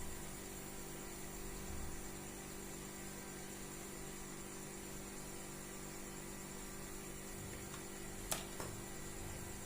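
A steady low hum with a faint hiss, and two sharp clicks close together about a second before the end.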